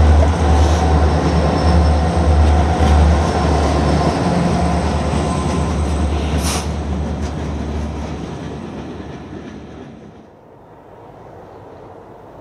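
BNSF diesel freight locomotives passing close by, their engines' deep drone fading as they move on and the freight cars roll past, with a brief sharp metallic screech from the wheels about six and a half seconds in. About ten seconds in the sound drops to the faint rumble of a distant train.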